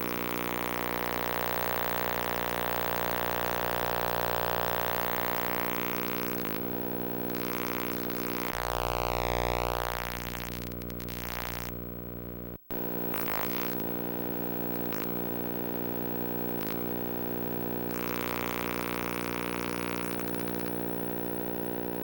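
hexagen2612 DIY analog synthesizer playing a steady, buzzing drone of many stacked pitches, with its filter swept up and back down about halfway through. The sound cuts out for an instant just after the sweep, and a few short clicks come through later.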